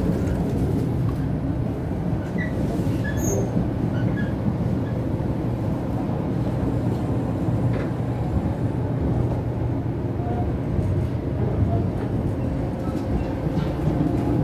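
Steady low rumble of a 500 Series Shinkansen running, heard from inside the train.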